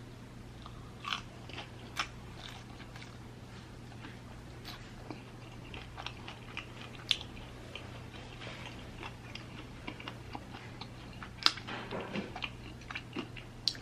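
Close-up eating sounds of a woman biting and chewing a hot-sauce-coated fried chicken wing: irregular soft bites and mouth clicks, with one sharper one near the end.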